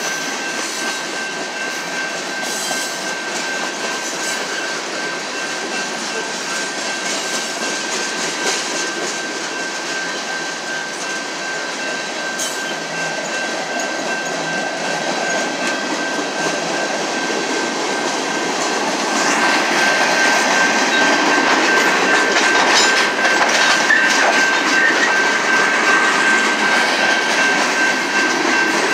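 Freight cars (tank cars, covered hoppers and boxcars) rolling past at a grade crossing, wheels clattering over the rail joints in a continuous rumble. A thin steady high tone runs over it, and the clatter grows louder about two-thirds of the way through.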